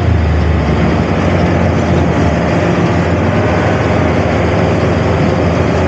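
Heavy farm machinery running steadily at a loud level, a deep engine drone with a broad mechanical rush over it.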